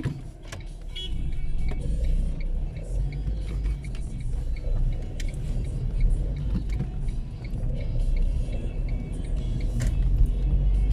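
Car driving, heard from inside the cabin: a steady low rumble of engine and tyres that grows louder about a second and a half in, with scattered light clicks.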